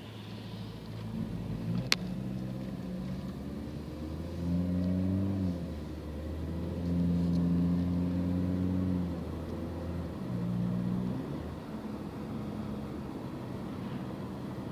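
Car engine accelerating, its pitch rising and falling several times, with one sharp click about two seconds in.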